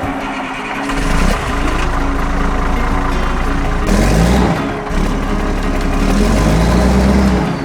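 Durango & Silverton narrow gauge steam locomotive running: a loud, steady rush of noise over a deep rumble that builds about a second in, with a few slow rising-and-falling low tones.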